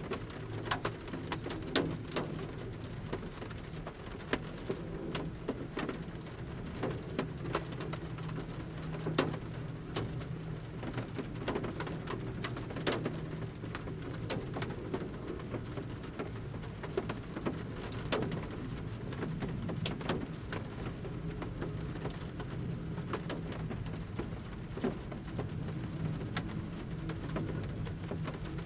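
Large raindrops dripping from the forest canopy onto the roof of a camper van, heard from inside. Sharp single taps come at irregular intervals over a steady low background of light rain.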